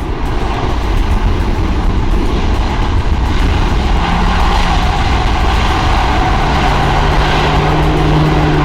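Jet airliner engines rumbling loudly, building over the first couple of seconds and then holding steady, with a low hum coming in about halfway through.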